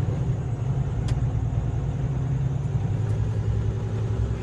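Cummins ISX inline-six diesel engine of a 2013 Kenworth T660 idling steadily, just after a start, with a low even rumble.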